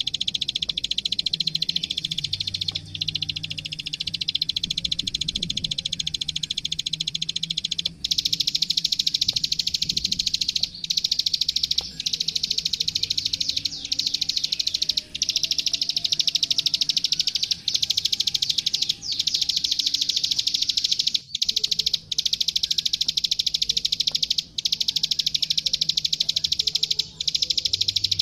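Plain prinia (ciblek sawah, 'klik klik') singing a long, very fast run of dry clicking notes, broken by short pauses every one to three seconds. A faint low hum runs underneath.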